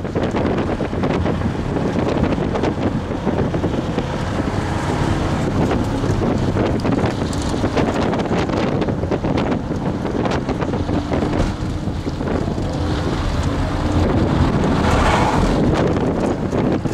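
Inside the cabin of a 1988 Toyota Supra on an autocross run: its straight-six engine running under load, mixed with a steady wash of tyre and road noise off wet pavement.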